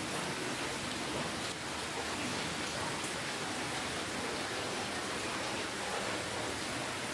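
Steady rainfall: an even hiss of many raindrops.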